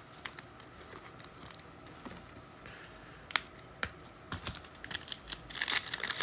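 Trading cards being handled and flipped through by hand: a scatter of light clicks and snaps, getting denser and more rustly near the end.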